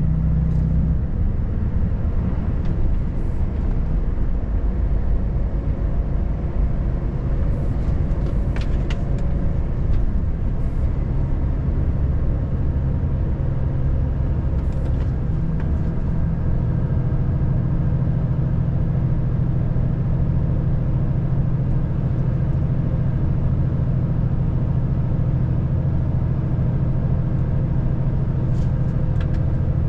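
Volvo FH540 truck's 13-litre straight-six diesel engine running steadily on the road, with tyre and road noise. The engine note shifts about a second in and again about halfway through.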